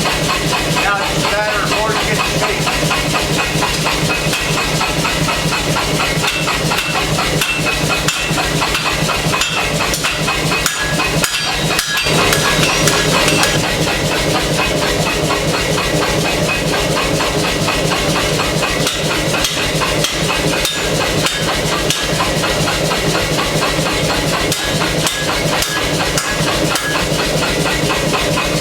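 Air hammer running, striking in a fast, steady rhythm of repeated blows over a constant machine hum.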